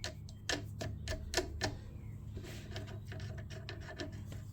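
A run of small metallic clicks and taps, several close together in the first two seconds and fainter ones after, as engine parts or tools are handled, over a steady low hum.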